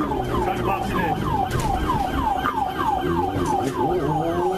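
Police siren in a rapid yelp of short falling wails, about four a second, over a vehicle engine that speeds up in pitch near the end as the car accelerates.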